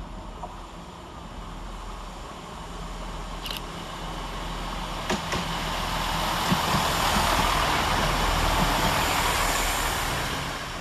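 Chiltern Railways Class 165 diesel multiple unit approaching and running past close by, its diesel engines and wheels on the rails building to a peak as it goes by, with a couple of sharp clicks along the way, then fading near the end.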